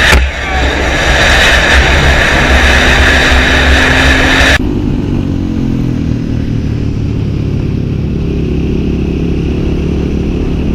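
Motorcycle on the move, with loud wind rush over the microphone. About four and a half seconds in it cuts off abruptly to a quieter, steady engine note.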